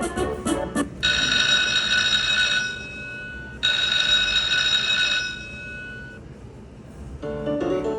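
Lightning Link slot machine ringing its jackpot bell: two steady electric-bell rings, each about a second and a half, between stretches of the machine's chiming win music. On a $1,250 win this bell marks a jackpot that has to be hand-paid by an attendant.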